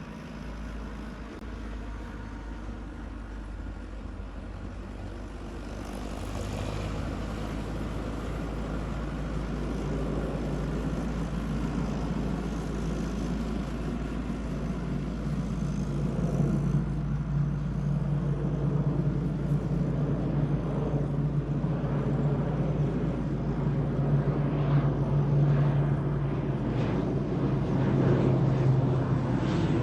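An airliner's engines run with a steady rumble that grows steadily louder, and a low steady drone comes in about halfway through, as the plane takes off.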